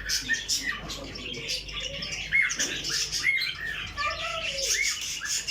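Caged songbirds in a pet shop chirping continuously, a string of short rising-and-falling chirps over higher chatter.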